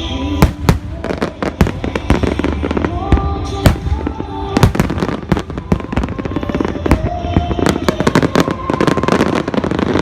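Fireworks bursting and crackling in quick, dense succession, over music played on loudspeakers with held, sustained notes.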